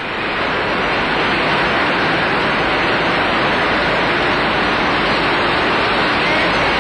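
Steady roar of Avro Lancaster bombers' engines, a continuous even drone with no breaks.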